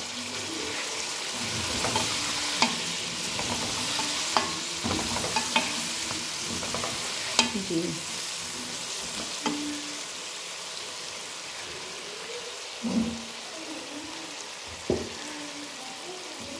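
Chicken pieces sizzling as they fry in a metal karahi with oil and a splash of stock, stirred with a spatula that knocks and scrapes against the pan every second or two.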